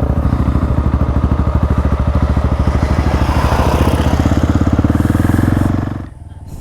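Dirt bike engine running at a steady throttle, with an even, rapid pulsing exhaust note; near the end its sound drops off sharply.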